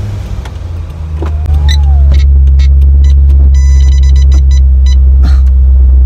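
The 2003 Corvette C5 Z06's LS6 V8 engine running at idle, swelling over the first two seconds and then holding steady. A few light clicks and a short electronic chime sound over it in the middle.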